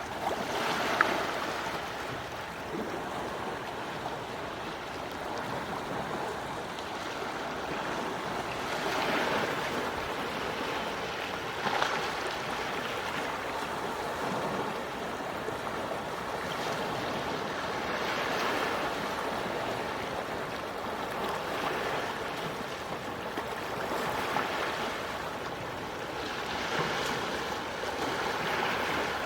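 Quiet sea waves washing onto the shore, a steady wash that swells softly every few seconds, with a couple of brief sharp ticks, the clearest about a second in.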